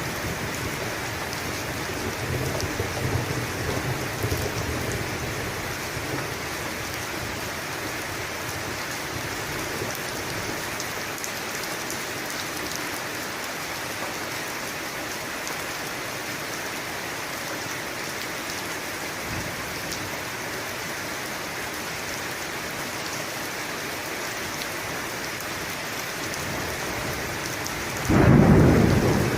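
Steady rain in a thunderstorm, with a low rumble of thunder in the first few seconds. A loud, sudden clap of thunder breaks about a second before the end.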